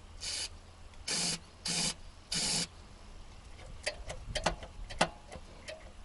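Four short bursts of aerosol spray hiss, each under half a second, as spray grease is applied to the AE86's clutch release fork pivot to stop a pedal squeak caused by dry grease. Several light clicks and taps follow in the second half.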